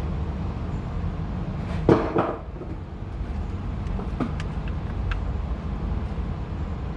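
Plastic oil filler cap being twisted open and lifted off an engine: a brief louder scrape about two seconds in, then a few light clicks, over a steady low rumble.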